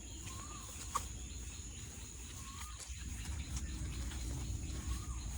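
Outdoor farm ambience: a bird calling three times with short rising-and-falling notes, over a low rumble and a steady high insect drone, with a sharp click about a second in.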